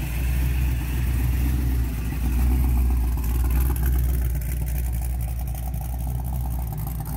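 A car engine running at low speed with a deep, steady exhaust rumble that swells a little a couple of seconds in.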